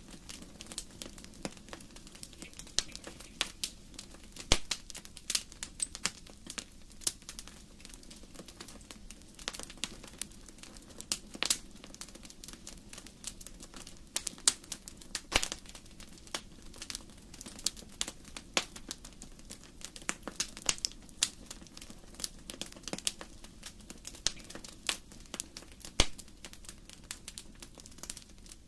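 Wood fire crackling: irregular sharp pops and snaps, many a second, over a low steady rush of burning, with the loudest snaps about four and a half seconds in and near the end.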